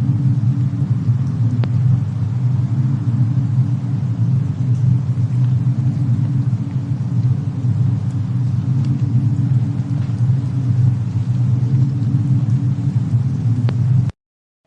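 Fireplace and snowstorm ambience: a steady low rumble with a few faint crackling ticks over it. It cuts off suddenly about half a second before the end.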